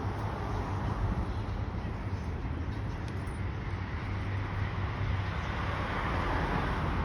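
Street traffic: passing cars with a steady low engine hum and tyre noise, growing louder near the end as a vehicle comes closer.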